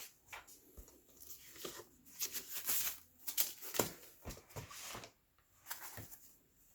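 Tablet packaging being handled during unboxing: irregular rustling and crinkling of plastic and cardboard, with short clicks and taps.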